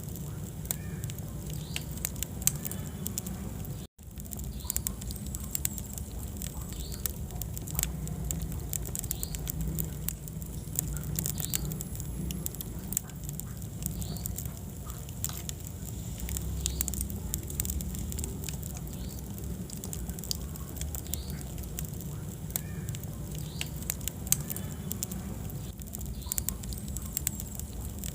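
Wood fire burning in a fireplace: a steady low rumble of flame with frequent sharp crackles and pops. The sound cuts out for an instant about four seconds in.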